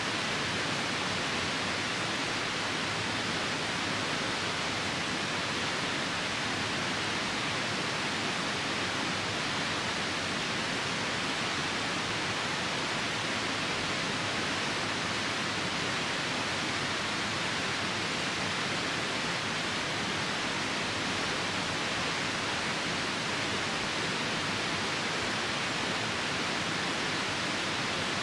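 Steady rushing of a nearby river in the rain, an even hiss with no pops or changes.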